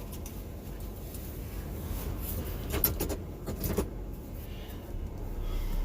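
Steady low engine rumble of a vehicle, with a few short clicks or knocks about halfway through.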